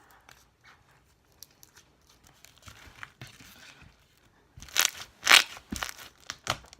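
Thick, glossy glue slime being squeezed and pressed by hand for ASMR: faint, scattered sticky clicks at first, then from about four and a half seconds in a run of loud, quick crackling pops and clicks.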